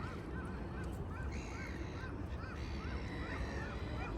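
A bird calling in a quick series of short chirps, about three or four a second, over a steady low rumble.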